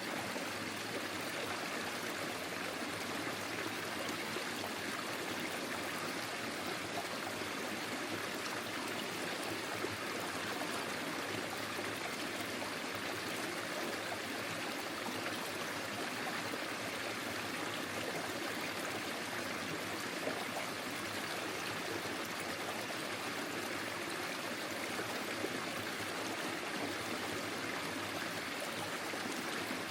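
Forest stream flowing over stones: a steady rush of water with trickling and gurgling.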